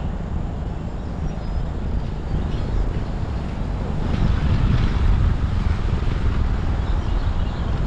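Strong, gusty wind buffeting the microphone: a continuous low rumble that grows somewhat louder about halfway through.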